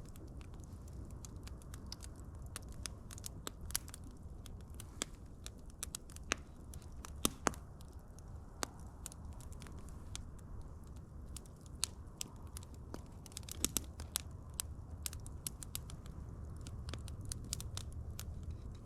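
Wood fire crackling, with irregular sharp pops and snaps over a steady low rumble of burning. Louder pops come about seven seconds in and again near fourteen seconds.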